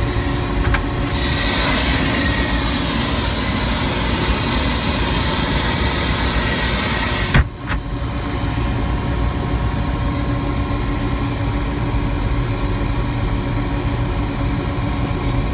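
Helicopter in flight: a steady drone of engine and rotor with a thin high whine. A sharp click comes about seven and a half seconds in, and the high hiss is lower after it.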